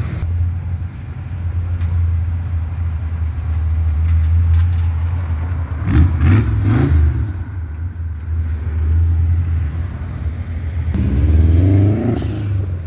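Car engine rumbling steadily at low pitch, with a short burst of louder revving about six seconds in and a rising rev near the end.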